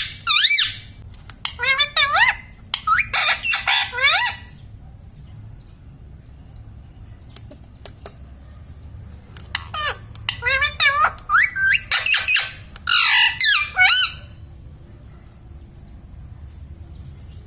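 Pet parrot squawking and chattering in high, warbling calls. There are two runs of about four seconds each, with a pause of several seconds between them.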